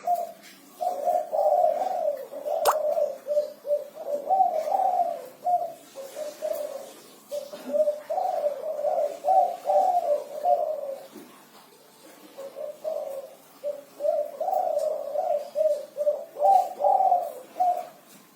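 Spotted dove (tekukur) cooing in long phrases of low, quick coos, the six-note 'kuku 6' song, given three times with short gaps. A single sharp click sounds about three seconds in.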